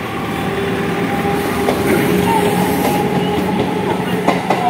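Electric multiple unit local train running past on the tracks below: a steady rumble of wheels on rail with a steady hum, growing louder as it comes closer, and a few sharp wheel clacks near the end.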